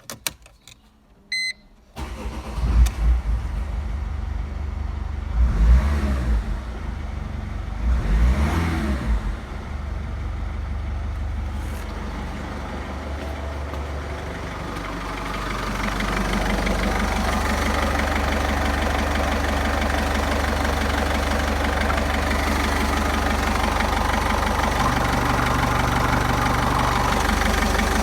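Mercedes OM611 2.2-litre four-cylinder common-rail diesel starting after a short beep, then idling. It is revved briefly twice, about six and eight and a half seconds in. It then runs steadily and gets somewhat louder from about fifteen seconds on.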